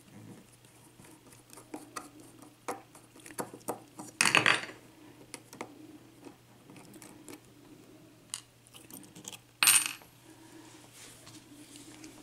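Small metallic clicks and clinks from a Yale mortise lock cylinder and metal tools being handled as the cylinder is taken apart, with two louder short metal rattles about four and ten seconds in.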